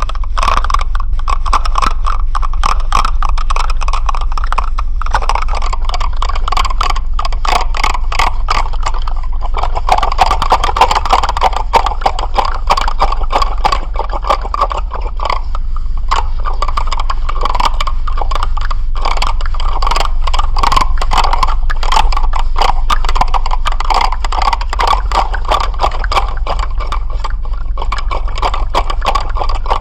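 Continuous, dense rattling: a fast stream of small clicks over a rattle noise, with a steady low hum underneath.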